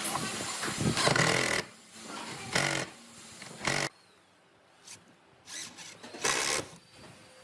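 A power tool working wood in short bursts: one longer run at the start, then several brief bursts with quiet gaps between.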